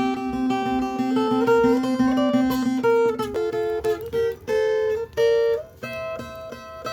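Acoustic guitar music: a plucked melody stepping from note to note over a steady strummed rhythm.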